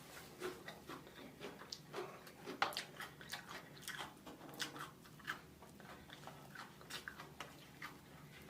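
Close-miked eating sounds of seafood: chewing and mouth smacking, a run of irregular short wet clicks.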